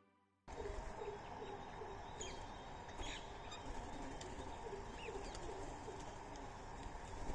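Outdoor birdsong: doves cooing in a repeated low phrase, with short high chirps from small birds over a steady background hiss. It starts about half a second in.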